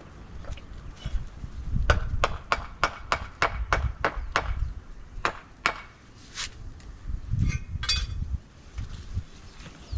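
A paver being tapped down into place in a patio bed: a quick run of about a dozen sharp taps, roughly three a second, then a few scattered knocks.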